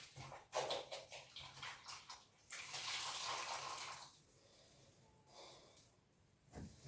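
Water splashing and trickling for about a second and a half, amid scattered small knocks and rustles of wet floor cleaning.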